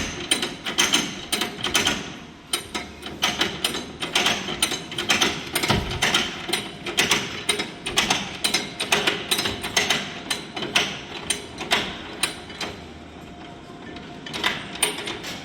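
Locomotive handbrake being wound on by hand, its ratchet clicking in quick uneven runs with a brief pause near the end, as the brake is tightened.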